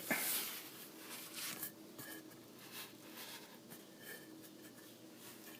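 Faint scraping, rustling and light ticks of hands turning a spin-on oil filter loose, with a short scrape right at the start.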